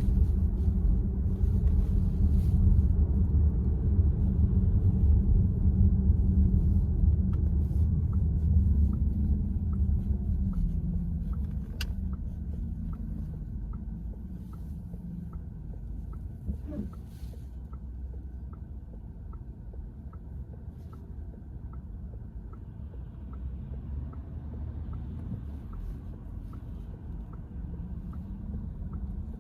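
Cabin of a VW ID.4 electric car: road and tyre rumble dying away as the car slows, with the turn-signal indicator ticking about one and a half times a second. About twelve seconds in there is a single sharp click from the steering column as the wheel is turned slowly to the right; this is the recurring 'clatch' noise the owner reports as a steering-column fault.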